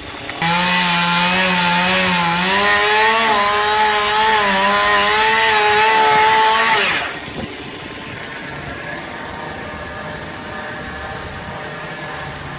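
Chainsaw running at full throttle while cutting a tree branch, starting about half a second in and holding a steady high pitch for some six seconds. Near the end it throttles down, the pitch drops and a quieter steady sound remains.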